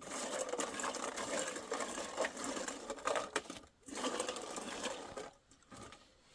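A fast, dense rattling, like a small machine running, in two runs: one of about three and a half seconds, then a short break and a second run of about a second and a half.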